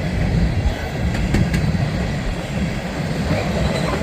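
Norfolk Southern freight train of hopper cars rolling past, a steady rumble of wheels on rail with a few sharp clicks about a second and a half in.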